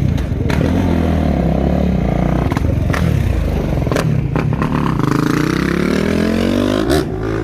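Freestyle motocross dirt-bike engines revving, the pitch falling and rising with the throttle, then climbing steadily over the last few seconds. A few sharp knocks cut in.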